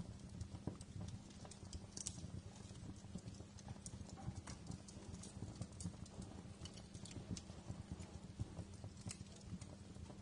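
Wood fire crackling in a fireplace: irregular sharp pops and snaps over a steady low rumble of the flames, with louder crackles about two seconds in and again near the end.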